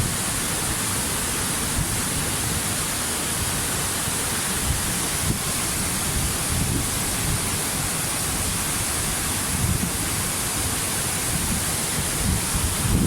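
Waterfall: a steady, unbroken rush of falling water, with uneven low rumbles that grow stronger near the end.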